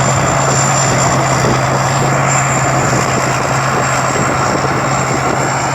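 Rice combine harvester running steadily while cutting rice: a continuous engine drone with a steady low hum and a thin high whine over it.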